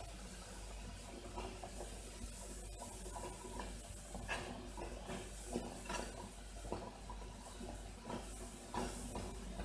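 Close-miked eating sounds of a person chewing: irregular short wet clicks and crackles, several a second at times, over a steady hiss.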